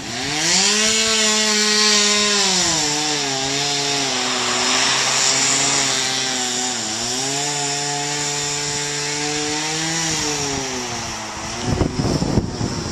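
Chainsaw running and cutting wood: it revs up at the start, its pitch sags twice as the chain bites in, and it winds down about a second before the end.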